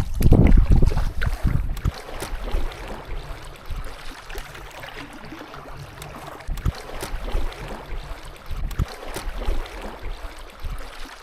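Canoe being paddled on a river: water swishing and splashing around the paddles and hull, with a few sharp knocks. A loud low rumble fills the first second or two.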